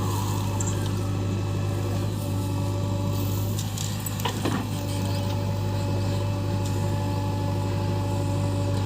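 JCB 3DX backhoe loader's diesel engine running steadily under work, a constant low hum. About halfway through there is a brief falling squeak.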